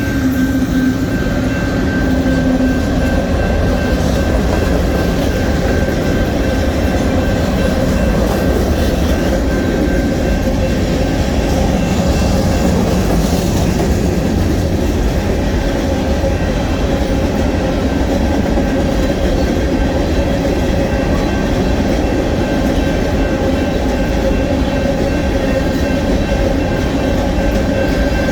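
A Union Pacific rock train's cars rolling past, with a steady, loud noise of steel wheels on the rails and a faint steady ringing tone above it.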